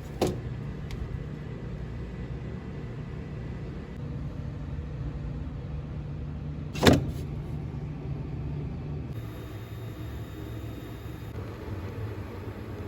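Steady low rumble of a car's engine and road noise heard from inside the cabin, with a sharp knock just after the start and a louder one about seven seconds in.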